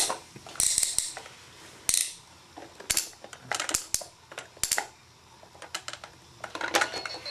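A child's plastic toy train being handled and knocked about, giving a string of irregular clicks, clacks and rattles.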